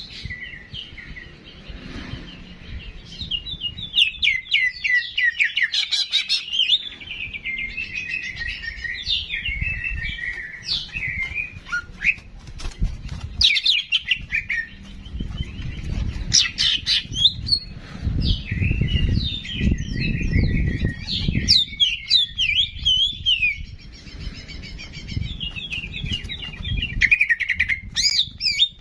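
Ki jenggot songbird singing a long, fast, varied song of chirps and trills, with only brief pauses. A low rumble sits under the song about halfway through.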